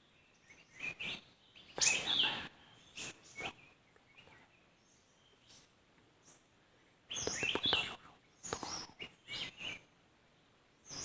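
Small birds chirping in short, scattered bursts, with quiet gaps between them.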